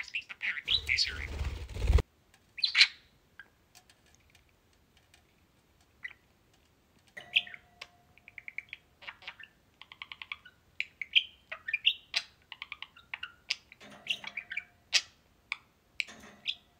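Pet budgerigars chirping and chattering in short high calls, with rapid clicking runs in their warble. A loud rustling noise about a second in, then a few quiet seconds before the chatter picks up again.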